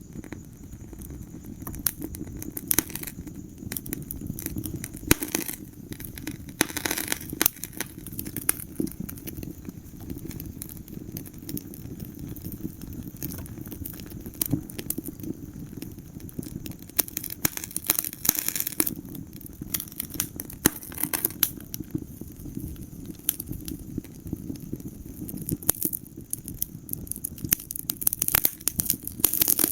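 Wood fire burning in a fireplace, with a steady low rumble of flames and irregular sharp crackles and pops throughout, in denser clusters now and then.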